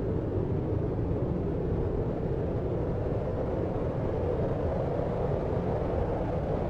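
Steady deep noise: an even, low rumble with little above the lower midrange, with no breaks, pulses or separate events.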